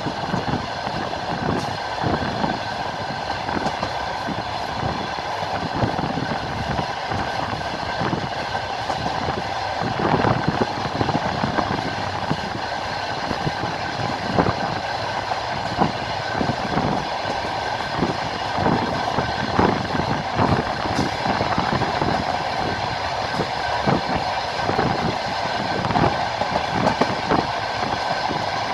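Moving passenger train: steady running rumble of the carriage with the wheels knocking over rail joints, many short irregular clacks.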